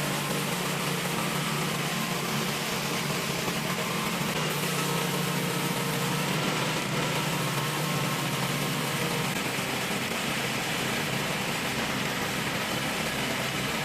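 An engine running steadily, a constant low hum under an even hiss.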